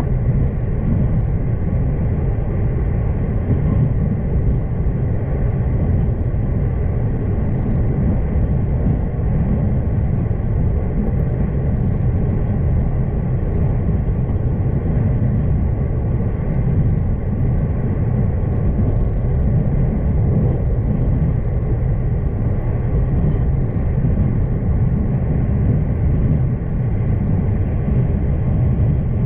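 V/Line passenger train running steadily, heard from inside the carriage: a constant low rumble of wheels and running gear on the track.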